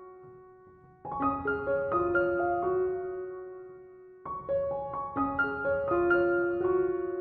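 Background piano music: slow phrases of struck notes that ring and fade, dying almost away before a new phrase starts about a second in and another about four seconds in.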